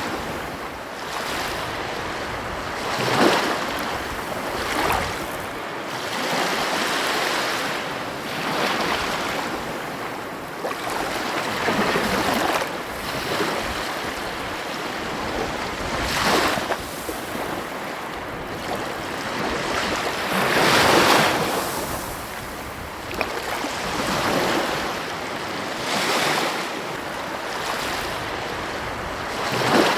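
Ocean waves breaking and washing onto a beach, a steady hiss of surf that swells and falls back every few seconds, the loudest breaks about 3, 21 and 30 seconds in.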